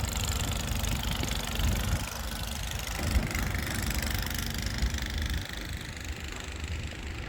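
An engine running steadily under a broad hiss.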